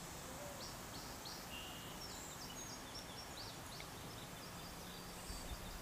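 Faint birds chirping, many short high notes in quick runs, over a steady low hiss.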